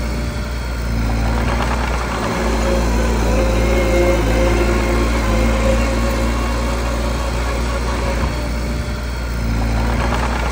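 Diesel engine of a small bulldozer running steadily, with a constant low hum.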